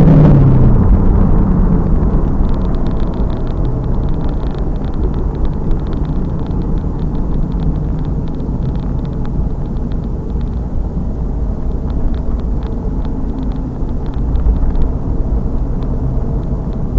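5.7 L LS1 V8 of a 2000 Pontiac Trans Am Firehawk, heard from the rear through its SLP exhaust, dropping off a loud high-rev note right at the start to a lower steady drone under road and wind rumble, with faint rapid ticking through the middle.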